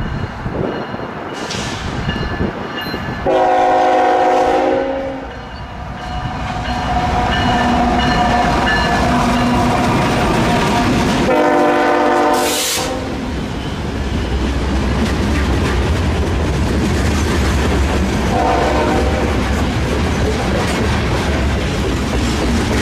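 A CN freight train led by two diesel locomotives sounds its multi-tone air horn in three blasts, two longer ones then a short one near the end, as it approaches and passes close by. After the locomotives go by, the loaded covered hopper cars roll past with a steady low rumble and wheel clatter on the rails.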